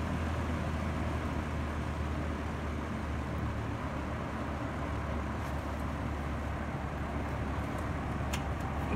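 Lakewood P23 box fan running on its lowest speed: a steady motor hum under the rush of air from the blades. A few faint ticks come near the end.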